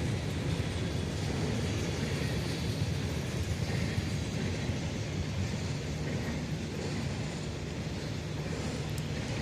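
CSX freight train rolling by with a steady low rumble.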